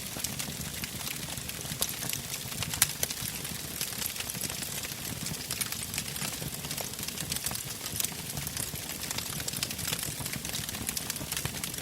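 Wood fire burning in a fireplace: irregular crackles and small pops over a steady low rumble of the flames, with one sharper pop about three seconds in.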